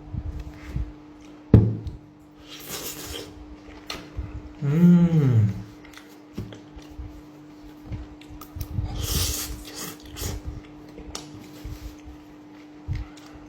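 A person eating risotto: a sharp click of cutlery on the plate, breathy mouth and chewing noises, and a drawn-out appreciative "mmm" about five seconds in, its pitch rising and then falling.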